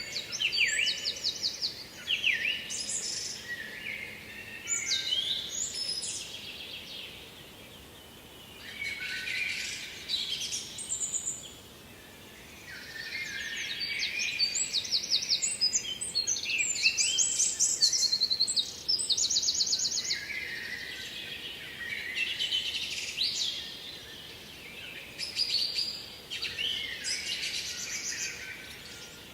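Songbirds singing: a series of varied short phrases, some with rapid trills, often overlapping, with brief lulls around 8 and 12 seconds in.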